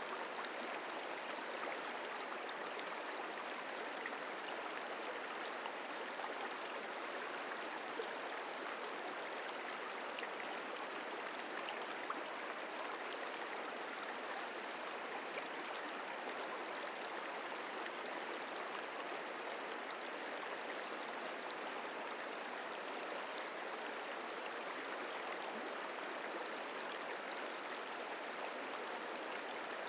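Merced River flowing over rocks, a steady rushing babble.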